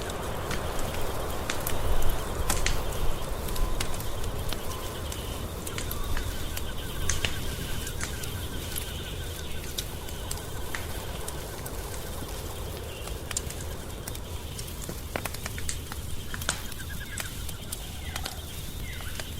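Wood fire crackling, with irregular sharp pops over a steady low rumble. Faint trilling and chirping calls run underneath, most noticeable near the end.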